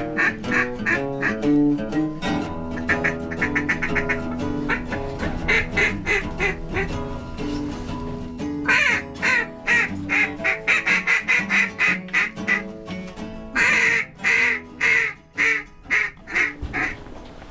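Background music with held notes, over which come quick runs of loud duck quacks, strongest in two long runs in the second half.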